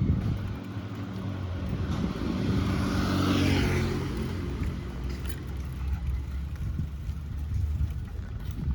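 Road traffic: a motor vehicle passes close by, its engine and tyre noise swelling to a peak about three seconds in and then fading, over a steady low engine hum.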